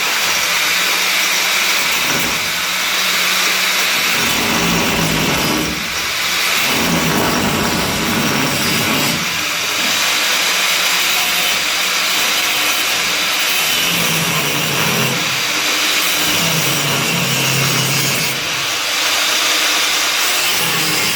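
Handheld power tool cutting the steel bodywork of a Ford Cortina, running steadily under load with a couple of brief dips in level.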